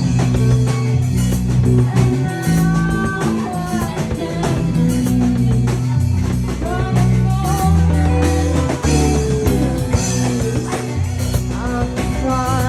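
Live rock band playing a song: electric guitar and bass over a steady drum-kit beat, with a melodic line weaving above.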